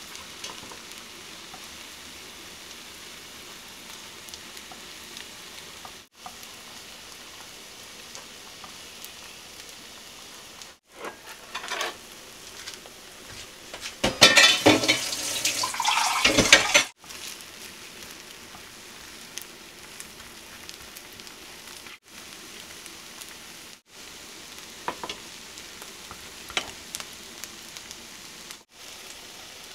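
Egg-battered pork belly slices sizzling in oil in a frying pan, a steady hiss. About halfway through the sizzling swells much louder for roughly three seconds. The sound drops out briefly several times, and a few light clicks come near the end.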